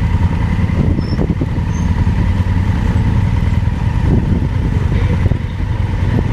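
Motorcycle engine running steadily on a dirt road, a continuous low rumble.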